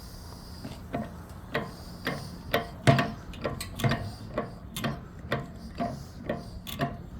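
Rhythmic ticking from a wood-fired steam boiler under steam, about two sharp clicks a second, over a faint steady hum.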